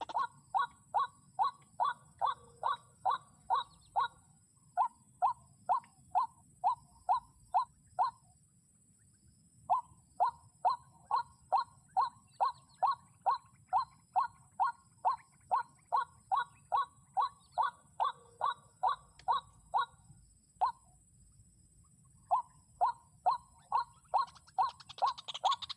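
White-breasted waterhen (ruak-ruak) calling: short honking notes repeated about two and a half times a second, in long runs broken by two short pauses.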